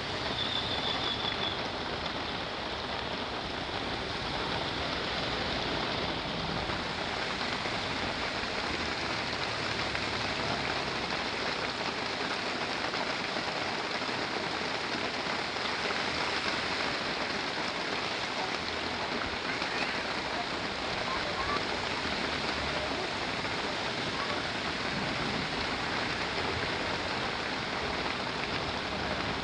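Heavy rain falling steadily, with the low noise of the truck driving underneath.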